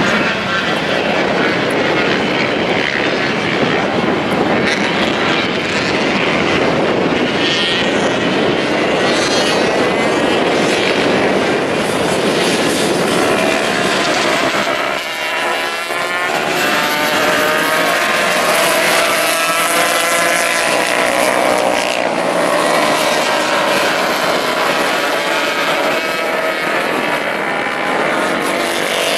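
Racing motorcycle engines running at high revs, several bikes together, with a short drop in revs about halfway through before they climb again.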